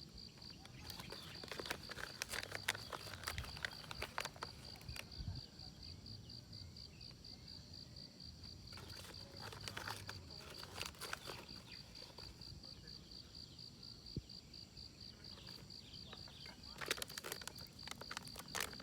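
An insect chirping steadily in a fast, even pulse of about three chirps a second, with bursts of rustling and clicking three times.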